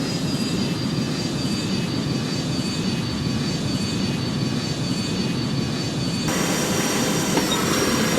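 Airliner cockpit noise on approach: a steady rumble of engines and airflow with a faint high whine, turning brighter about six seconds in.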